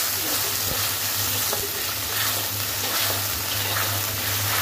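Onion and green capsicum sizzling in a watery chilli sauce in a hot wok, a little water having just been added, with a metal spatula stirring through it. The sizzle is steady throughout, with a few faint ticks from the spatula.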